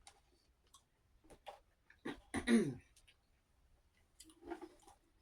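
A person drinking water: small mouth and lip clicks and swallows, with a short voiced sound falling in pitch about two and a half seconds in.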